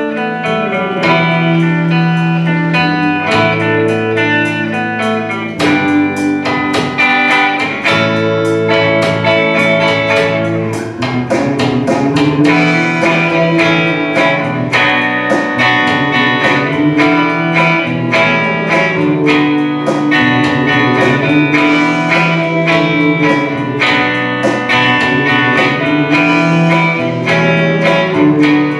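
Guitar music: an instrumental passage of plucked notes over held low notes, with no singing.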